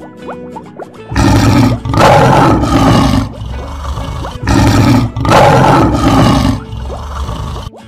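Lion roar sound effect, heard twice, each roar about two seconds long with a short lead-in, over faint plucked background music.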